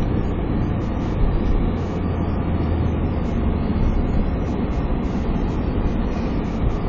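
Car driving, heard from inside the cabin: steady engine and road noise with a strong low rumble.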